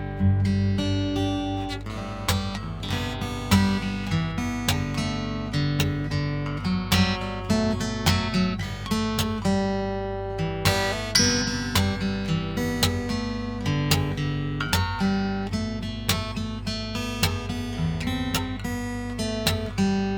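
Solo acoustic guitar played fingerstyle: a melody of plucked notes over a moving bass line, with some strummed chords.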